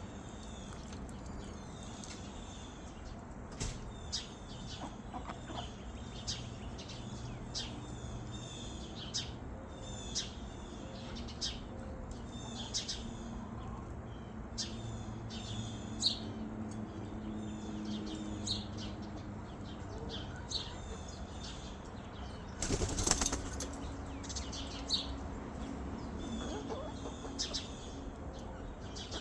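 Small birds chirping: many short, high chirps repeating all through, with one brief loud burst of noise about 23 seconds in.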